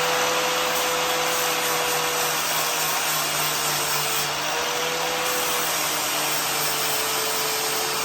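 Handheld power grinder running steadily, grinding down metal on the car's upper control arm so that it clears the frame; its pitch sags slightly now and then as it bites.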